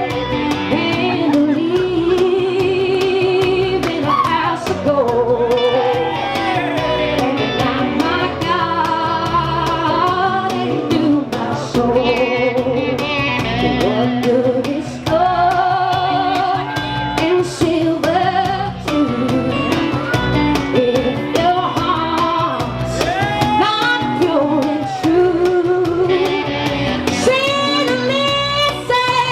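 Live band music: a woman singing with vibrato over guitar accompaniment.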